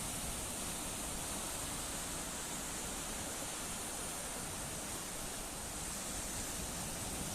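Sea waves and surf, a steady even wash without distinct breaks.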